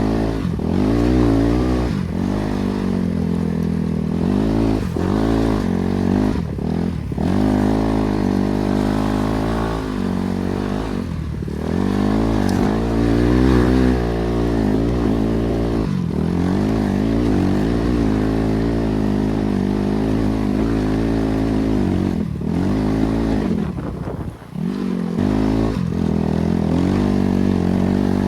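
BRZ MX8 motorcycle's NB300 single-cylinder four-stroke engine under way, its pitch climbing and falling again and again as the throttle is opened and closed and gears change, with two brief throttle lifts, one about a third of the way in and one near the end.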